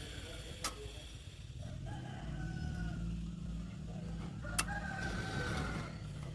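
A rooster crowing twice, two drawn-out calls, over a steady low rumble, with two sharp clicks, the louder one about four and a half seconds in.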